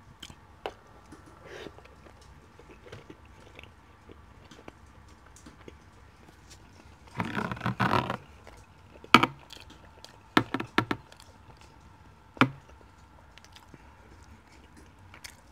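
Eating sounds: quiet chewing of curry chicken and flatbread. There is a louder scraping burst about seven seconds in, then several sharp knocks and clicks as a glass food container is handled and tipped to pour the curry out.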